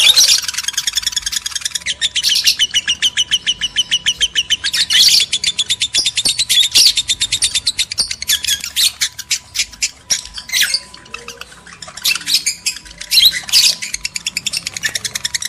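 Lovebirds in breeding condition chattering in rapid, high trills of fast-repeated notes. The chatter thins out for about two seconds past the middle, then becomes dense again.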